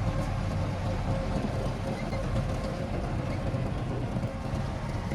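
Heavy diesel engine of earthmoving equipment running steadily, a low drone with a thin constant whine above it.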